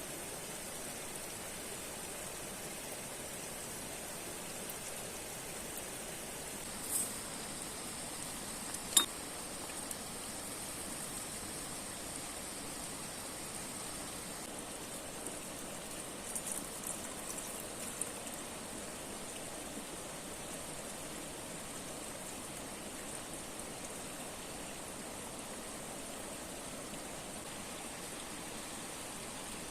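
Steady rush of a river and waterfall. A short sharp sound comes about seven seconds in, a louder sharp click about two seconds later, and a few small ticks a little over halfway through.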